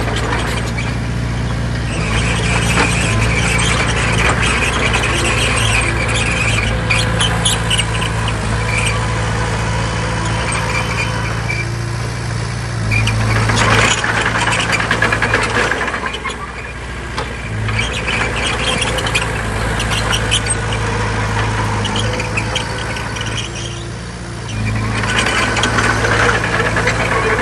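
Heavy earth-moving machinery working: a diesel engine runs steadily with high metallic squealing and clanking over it, the engine getting heavier twice, about halfway through and again near the end.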